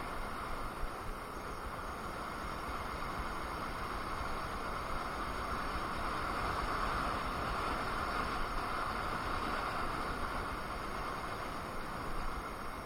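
Ride noise from a KingSong KS18S electric unicycle in motion: a steady rushing hiss of wind and road, growing a little louder midway.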